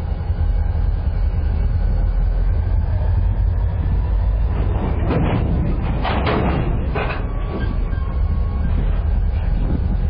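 Freight train of a rail work train during switching: a steady low rumble from the locomotives and cars. A few short, harsh metallic bursts come about five to seven and a half seconds in, with one more near the end.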